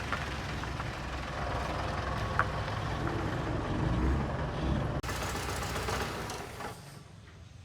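A vehicle engine running steadily with a low rumble, fading down near the end.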